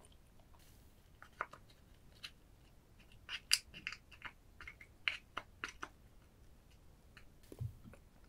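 Crisp cracking and crunching of soy-sauce-marinated crab shell: a quick run of sharp cracks over a few seconds, then a single dull thump near the end.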